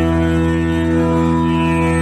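Tanpura drone tuned to E: its open strings plucked in a repeating cycle, a dense, buzzing, shimmering bed of overtones held steady without a break.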